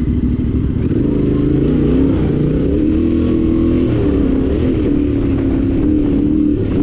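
Yamaha Ténéré 700's parallel-twin engine running while the bike is ridden. Its pitch holds fairly steady, with small rises and dips as the throttle changes.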